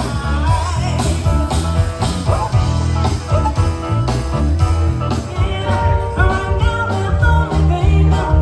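Live band playing a Motown song, with a singer, guitar, bass and a steady drum beat.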